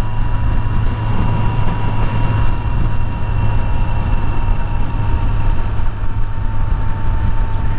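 Kawasaki Z900 inline-four motorcycle engine running at a steady cruise, mixed with a loud, even rush of wind noise, with no change in pace.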